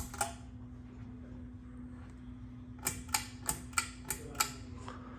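Pull-chain switch on a Fanimation Pylon ceiling fan clicking: one or two clicks at the start, then six quick clicks about three a second, past the middle. A steady low hum runs underneath.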